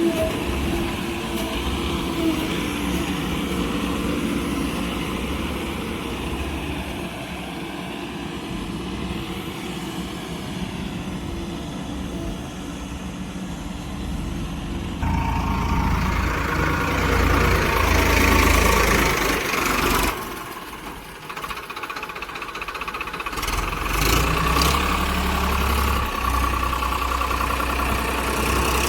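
Heavy vehicle engine running steadily. It gets louder about halfway through, falls away briefly around twenty seconds in, then picks up again.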